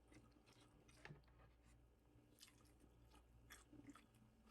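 Faint close-up chewing of food, with a few soft mouth clicks.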